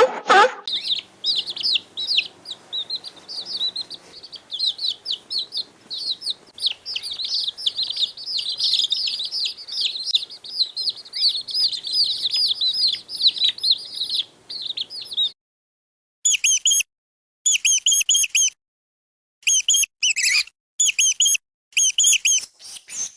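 Small birds chirping in a dense, rapid chatter of high calls. About fifteen seconds in it cuts off suddenly and gives way to short bursts of quick repeated chirps, six or seven of them, separated by silences.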